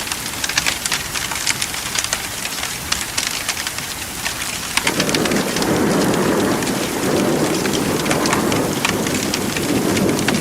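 Steady rain with sharp crackles throughout, like a wood fire crackling. About halfway through, a rolling rumble of thunder comes in and carries on.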